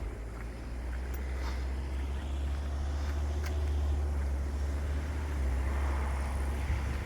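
Strong, steady low rumble of wind buffeting the microphone, mixed with road traffic noise that swells near the end as a vehicle passes.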